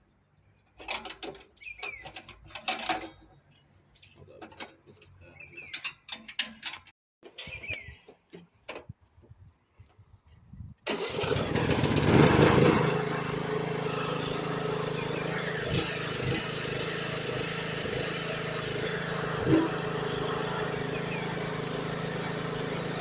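Small tractor engine, jump-started off a car battery, catches and starts about eleven seconds in, runs loudest for a moment and then settles to a steady idle. Before it starts, scattered knocks and clatter.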